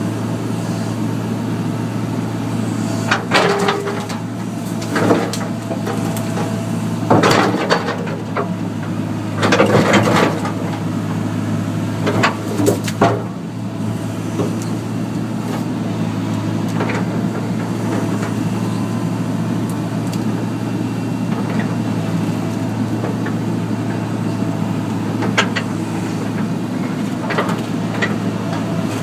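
Excavator diesel engine running at a steady pitch, with a series of loud sudden cracks and scrapes about three, five, seven, ten and twelve seconds in as the machine tears a tree branch off.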